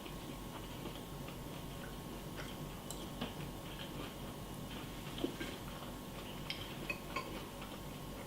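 A spoon clinking lightly against a cereal bowl a few times, the loudest clink about five seconds in. Underneath is a steady background with a faint, even ticking.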